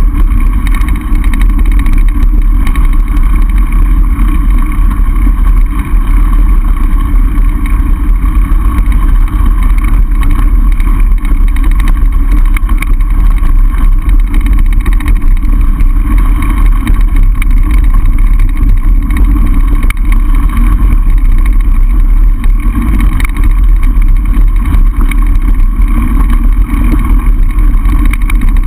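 Wind buffeting the microphone of a camera riding along on a mountain bike, a loud steady rumble with no breaks.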